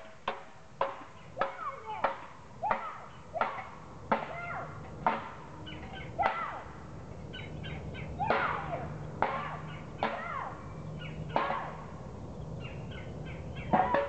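A bird giving a short, sharp call over and over, about every half second to a second, each call bending up and then down in pitch. A faint low hum runs underneath through the middle of the stretch.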